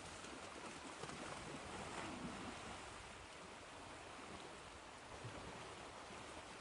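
Ocean surf washing in: a steady, even hiss of breaking waves that swells slightly about two seconds in.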